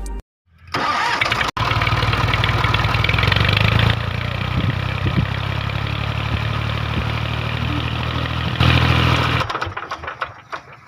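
An engine running steadily with a low rumble, starting up about a second in, with a brief cut-out soon after and fading out near the end.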